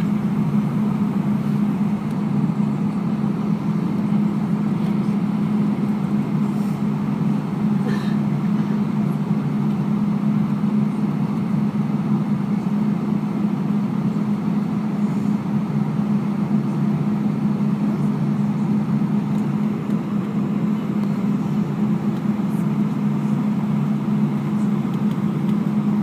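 Steady drone inside an Airbus A319 cabin, the airliner's jet engines at low power along with the cabin air, a low hum that holds level with no spool-up.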